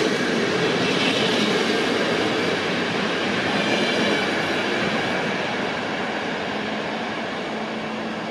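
PKP Intercity passenger coaches rolling past as the train departs, a steady rumble of wheels on the rails that fades over the last few seconds as the end of the train pulls away.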